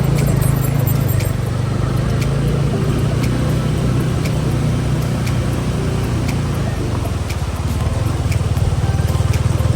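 Motor vehicle engine running steadily, a strong low hum with a fast even pulse, with light ticks or rattles repeating several times a second.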